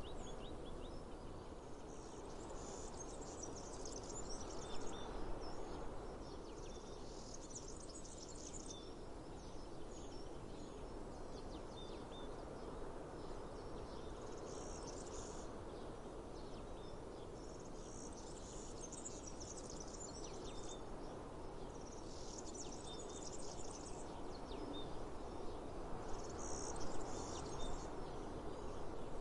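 Outdoor ambience: insects, likely cicadas, buzz in repeated high-pitched bursts of a second or two, about six times, with a few short bird chirps. A steady low background noise runs underneath.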